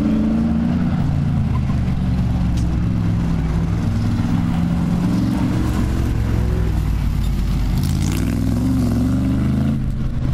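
AC Cobra 427's V8 engine under hard driving, revving up and easing off several times as the throttle is worked on and off, its pitch rising and falling.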